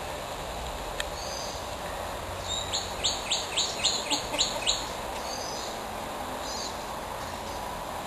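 A bird calling a quick run of about eight sharp, high notes, each falling in pitch, about four a second, starting about two and a half seconds in, with a few fainter high whistles before and after.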